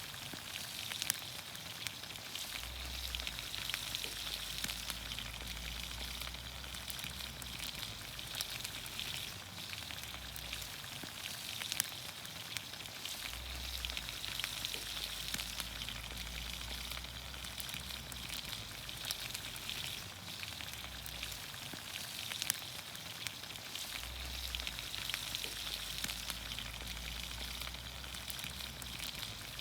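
Vegetables cooking in olive oil over a campfire, sizzling steadily with many small pops and crackles.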